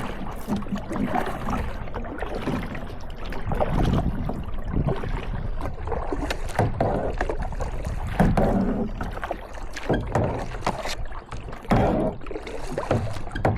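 Kayak paddle strokes dipping and splashing in lake water, irregular knocks and swishes every second or so over a steady low rumble.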